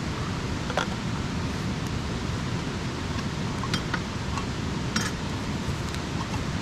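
Wood campfire burning with a steady hiss, broken by a few sharp crackles and pops: one about a second in and a quick cluster about five seconds in.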